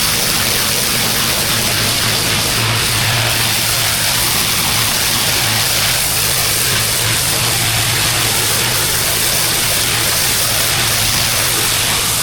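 Pressure washer's engine running steadily under the constant hiss of a high-pressure water jet spraying.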